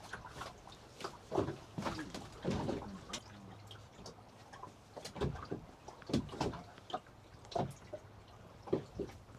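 Water lapping and slapping against the hull of a small boat in irregular splashes.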